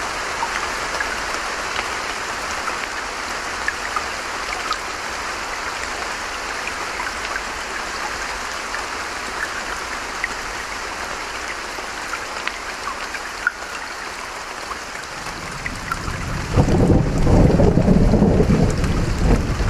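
Steady hiss of rain and running creek water with scattered drips. About three-quarters of the way through, a low roll of thunder swells in and stays loud to the end.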